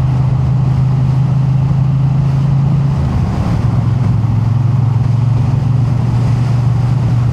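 Triumph Bonneville T100 parallel-twin engine running at a steady cruise on the open road. Its note wavers and shifts briefly about three seconds in, then settles into a steady drone again.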